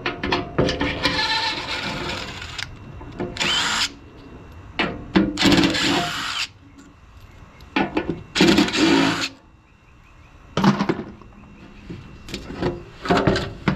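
Power drill or driver run in about six short start-stop bursts, loosening hardware to get the motor out of an air conditioner unit being scrapped.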